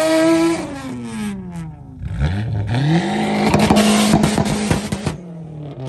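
Car engine revving at a drag-race start line. It is held at high revs, falls away, then revs up sharply about two seconds in and holds steady with a rapid crackle of pops until it cuts off about five seconds in.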